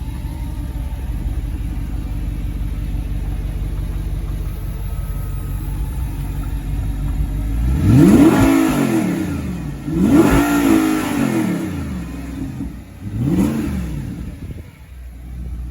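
Audi R8's 4.2-litre naturally aspirated V8 idling steadily, then revved three times in the second half, each rev rising and falling in pitch, the third the shortest.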